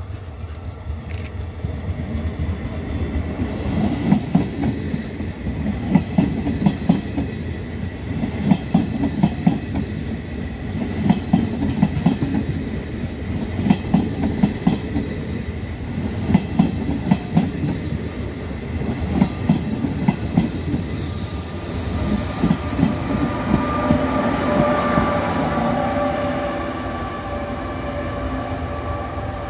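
Regional passenger train of Trenitalia coaches passing close, its wheels clattering over the rail joints in regular clusters of clicks. About two-thirds of the way through this gives way to an electric locomotive pulling away, with a steady whine of several tones.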